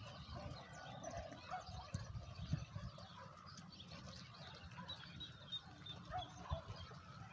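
Birds calling outdoors: scattered short calls, with a quick run of high chirps about five seconds in. Irregular low thuds sound underneath.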